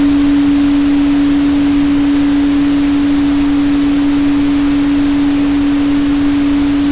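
A steady pure 285 Hz tone, a single unwavering pitch with no overtones, held under a constant even hiss of pink noise.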